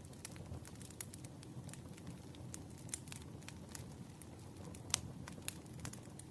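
Firewood crackling in a campfire: a steady low rumble of burning logs under many small sharp pops and snaps, with the loudest pop about five seconds in.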